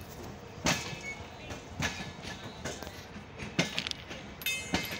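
Indian Railways LHB passenger coaches rolling past at low speed: a steady rumble with irregular metallic clanks, about one every second or so, as the wheels cross rail joints. Near the end there is a brief high squeak.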